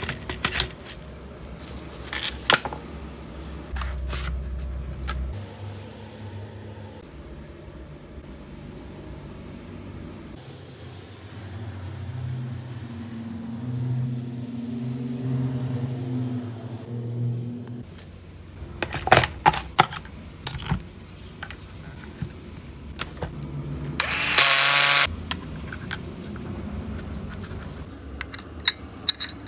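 Workshop bench noises: scattered clicks and knocks of tools and parts, a low steady hum in the middle, and a power tool whirring once for about a second near the end.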